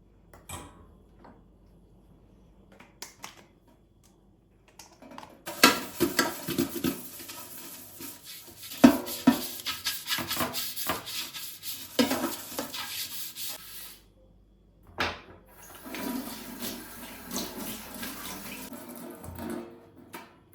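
Water running, with frequent knocks and clatter, in two stretches with a short break between them, after a few light knocks.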